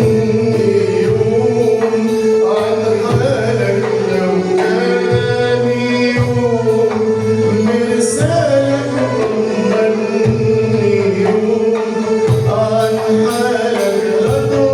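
Arabic song: a male voice singing over instrumental accompaniment, with hand percussion keeping a steady rhythm.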